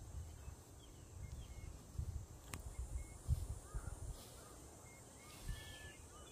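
Strong wind buffeting the microphone in uneven gusts, with a few faint bird calls and one sharp click about two and a half seconds in.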